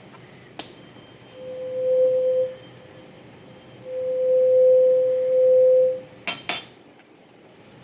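512 Hz tuning fork ringing over a resonance tube, its pure tone swelling loud twice as the air column is brought to resonance. There is a sharp click shortly before the tone and two quick clicks just after it ends.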